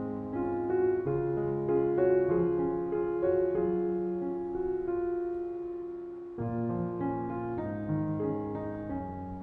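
Background piano music: slow, soft notes held and layered. The sound dies down gradually, then a new phrase comes in suddenly about six seconds in.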